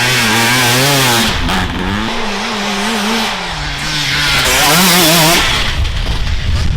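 Off-road enduro motorcycle engines revving, the pitch rising and falling with the throttle as the bikes ride past, loudest about a second in and again around five seconds in, then dropping to a rougher low rumble near the end.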